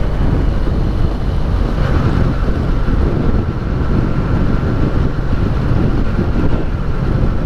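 Wind rushing over the microphone of a Benelli 302S motorcycle on the move, with its engine running steadily underneath and a faint steady whine.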